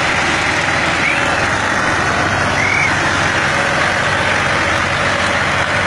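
Tractor diesel engine running steadily and loud, typical of a tractor straining in a tochan pull, with a couple of brief high chirps over it.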